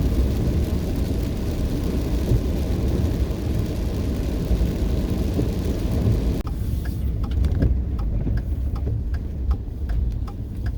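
Pickup truck driving on a wet road in steady rain: a loud low rumble under a hiss of tyres and rain. About six seconds in the hiss drops away, leaving the rumble with light scattered ticks.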